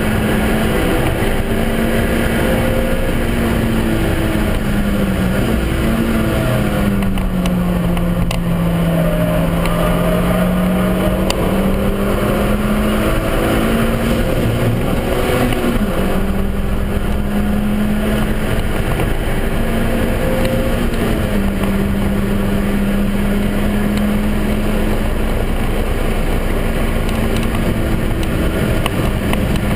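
Suzuki Swift Sport's four-cylinder engine pulling at a steady high pitch, heard inside the stripped-out cabin over a constant rush of road and wind noise. About a quarter of the way in the engine note sinks for several seconds, then jumps back up suddenly about halfway through and holds steady again.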